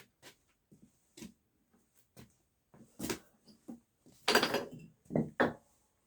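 Bricklaying work: irregular knocks and clicks of bricks and a trowel being handled and set, with a louder, longer scrape about four seconds in and two sharp knocks just after.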